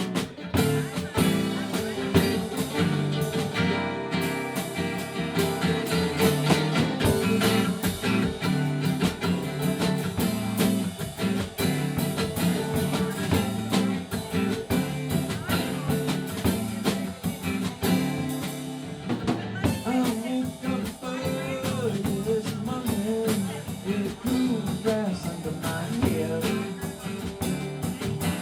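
Live band music: guitars over a drum kit keeping a steady beat.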